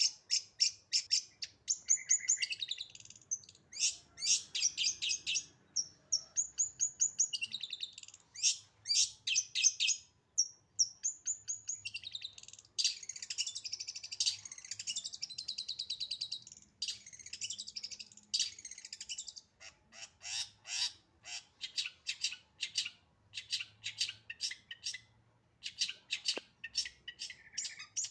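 Long-tailed shrike (cendet) singing a fast, dense song of sharp, rapidly repeated high notes and quick trills, mixed with mimicked phrases of other birds. The singing breaks off briefly twice.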